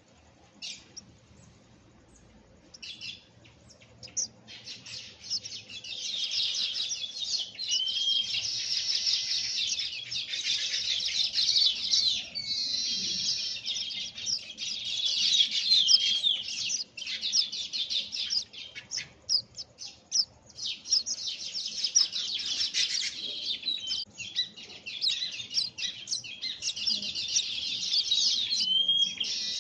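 Baya weavers chirping and chattering in a dense, continuous chorus of fast high chirps that starts a few seconds in, with a few brief lulls.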